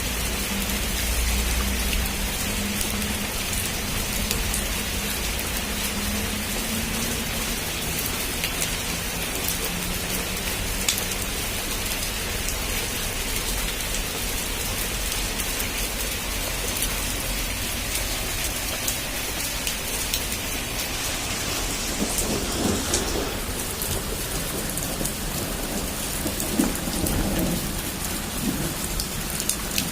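Heavy rain falling steadily, with low thunder rumbling in the storm.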